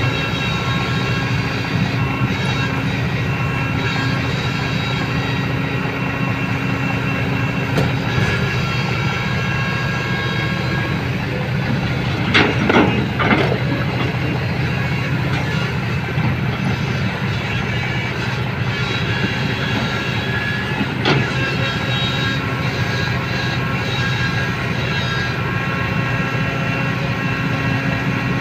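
Vehicle engine running steadily with a low, even hum, broken by a few brief clatters about halfway through and again later.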